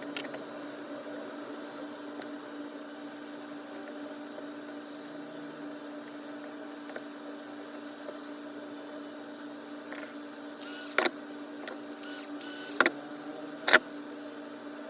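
Parts of a polisher being handled during reassembly: a few small clicks, then a run of short scraping and rattling sounds ending in one sharp click near the end, over a steady faint hum.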